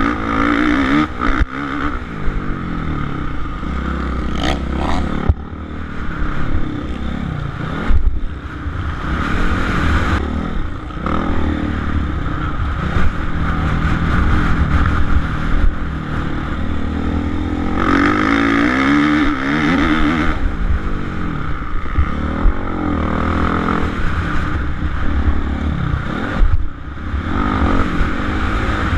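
Suzuki RM-Z450 single-cylinder four-stroke motocross engine being ridden hard, revving up and dropping back again and again as the rider works the throttle and gears around the track.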